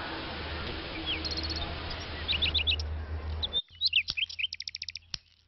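Small birds chirping, with quick runs of repeated high notes and short calls, over a steady low hum that stops abruptly partway through.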